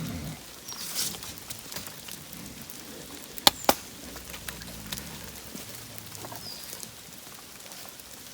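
Steady rain patter, broken about three and a half seconds in by two sharp clicks in quick succession.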